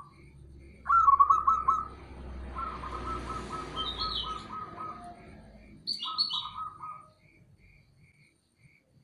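Zebra dove (perkutut) calling: bursts of rapid staccato cooing, the longest lasting about three seconds, with brief higher chirps about four and six seconds in.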